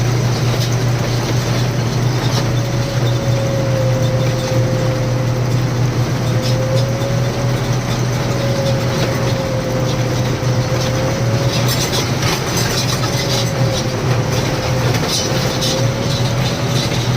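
Loaded truck's diesel engine running steadily on the road, a deep continuous drone with a thin whine above it that wavers slightly in pitch.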